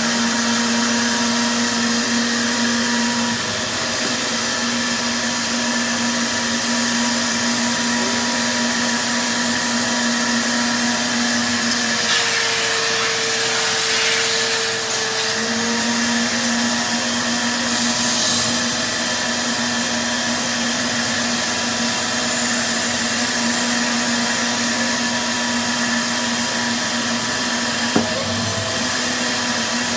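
ShopVac wet/dry vacuum running steadily, sucking leaf debris through a length of irrigation pipe fitted to its hose. Its pitch jumps higher for about three seconds near the middle, then drops back. There is a single click near the end.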